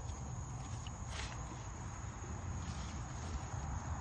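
Steady high drone of insects, crickets or similar, over a low steady rumble.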